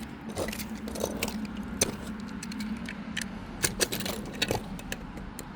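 Toy monster trucks being picked up and handled, with irregular light clicks and clacks as they knock against each other and the track, a few sharper ones in the second half.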